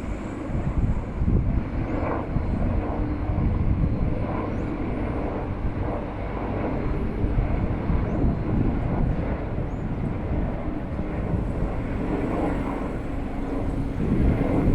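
Helicopter running, its engine and rotor noise steady and heavy at the low end with a constant hum.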